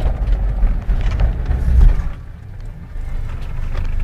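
Off-road vehicle's engine running loudly as it drives, heard from inside the cabin; it drops back about two seconds in and picks up again a second later.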